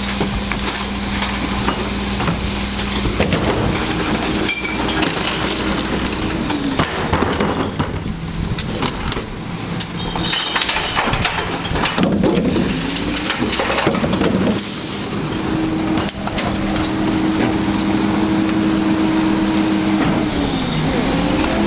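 Recycling truck's diesel engine running, its pitch rising and holding for a few seconds, then dropping back, twice, with scattered knocks and clatter.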